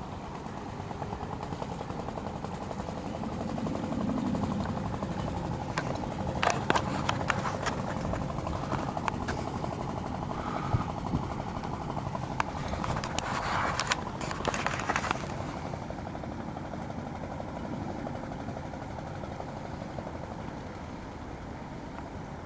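A boat engine running steadily, with a run of sharp knocks and clicks about a quarter of the way in that ends about two-thirds through.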